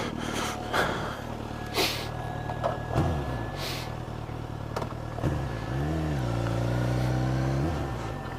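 Suzuki GSX-S1000 inline-four engine running as the bike is ridden. Its revs swing up and back down about five seconds in, hold steady and a little louder, then drop off near the end as the throttle closes. There are two brief hisses early on.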